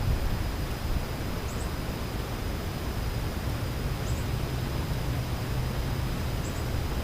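Backyard outdoor ambience: a steady low rumble with a faint thin high tone, and a faint, short, high double chirp about every two to three seconds.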